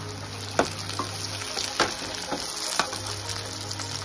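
Chopped tomatoes and onions sizzling in hot oil in a kadai, stirred with a metal slotted spoon that scrapes and knocks against the pan about three times.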